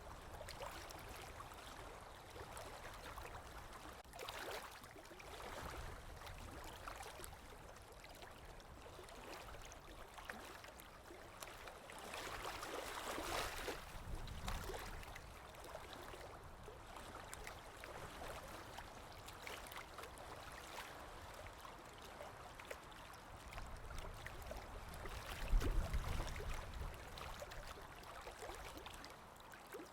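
Water trickling and gurgling steadily, with gentle swells in level and a brief deeper splash or thump about three quarters of the way through.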